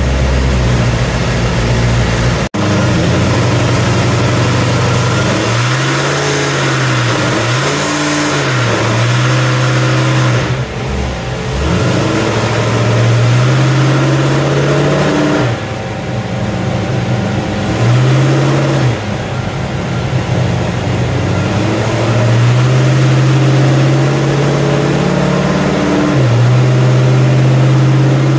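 Car engine running on a chassis dyno, revved up and back down in several quick blips, with stretches of steady running between.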